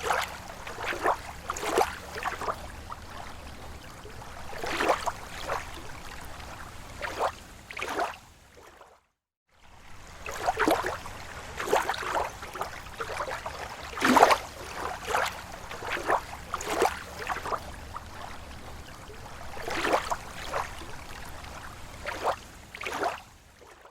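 Small waves lapping against a lake shore: irregular soft splashes and gurgles every second or so over a steady low wash of water. The sound cuts out completely for about half a second a third of the way in.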